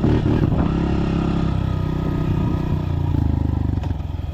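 Dirt bike engine running steadily, its note settling a little lower about three seconds in.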